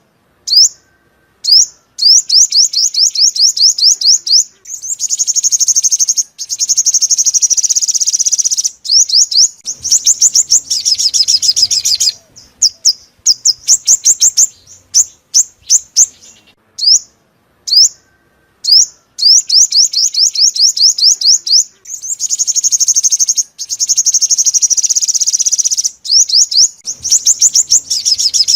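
Sunbird song: rapid trills of high, thin chirps in quick runs, broken by short pauses and starting again.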